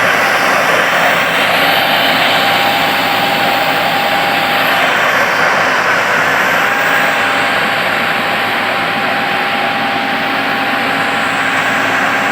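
Tractor engine running steadily under load, a loud even drone with a faint steady whine, no break or change in pitch.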